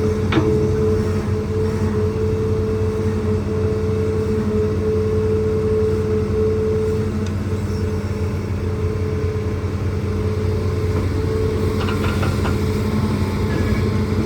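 Hitachi ZAXIS200 hydraulic excavator's diesel engine and hydraulics running steadily at working speed, with a steady drone and hum. A few light knocks, likely from rock, come just after the start and again about twelve seconds in.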